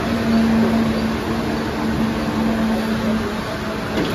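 Mumbai suburban electric local train standing at a platform, giving a steady hum over an even rushing noise. The hum fades a little after three seconds in, and a short knock comes near the end.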